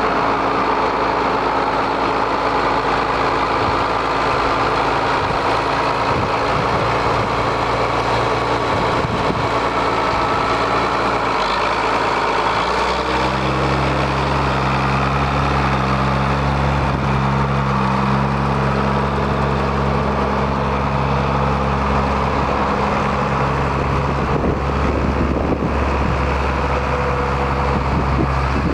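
John Deere 7810 tractor's diesel engine idling steadily. About halfway through, the low engine note shifts to a new steady pitch and grows stronger.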